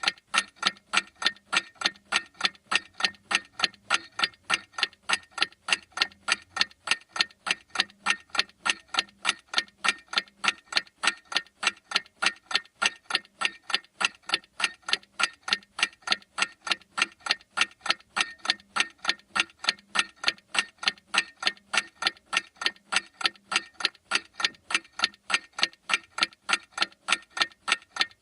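Clock ticking steadily: sharp, evenly spaced ticks at an unchanging rate.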